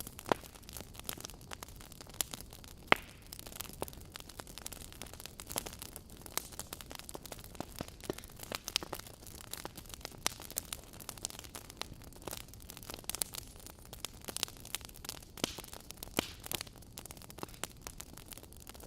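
Fireplace crackling: a steady low hiss with irregular snaps and pops of burning wood, a few of them sharper and louder, such as one about three seconds in.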